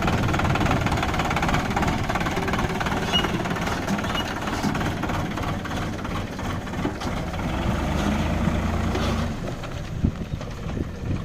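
Farm tractor's diesel engine running steadily with a low rumble that drops away about nine seconds in, after which it is quieter.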